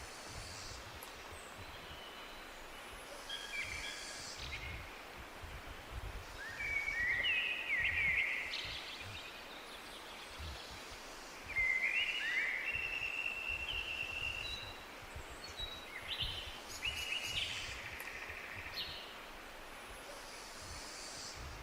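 Wild birds singing in a forest: several songbirds give short, repeated song phrases and chirps, the loudest phrases a little after a quarter of the way in and again just past the middle. A low, uneven rumble runs underneath.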